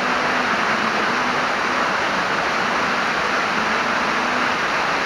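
Kailasakona waterfall crashing down, a steady, even rush of falling water.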